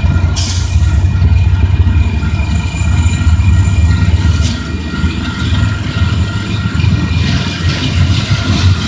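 Freight train passing with a steady, loud low rumble.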